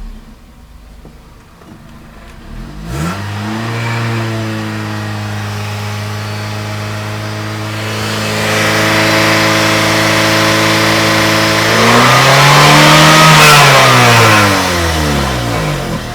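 2002 Honda Civic EX's 1.7 L four-cylinder engine revved in neutral. It rises about three seconds in and holds a steady raised speed for several seconds, getting louder partway through. It then swings up to a brief higher peak and drops back down near the end.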